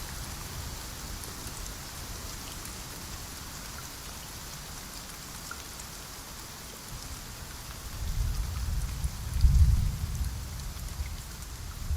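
Steady heavy rain hissing, with a low roll of thunder building about two-thirds of the way in, peaking shortly after and rumbling on.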